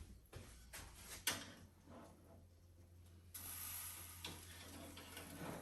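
Light clicks and knocks of a baking tray and utensils being handled in the first second and a half, then a steady soft hiss from about three and a half seconds in, over a low steady hum.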